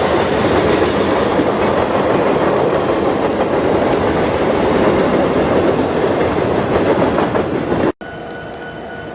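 Freight train cars rolling past, their wheels clacking over the rails. About eight seconds in the sound cuts off abruptly to a much quieter scene with a faint steady hum.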